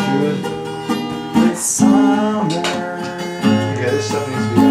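Acoustic guitar being strummed, playing a song.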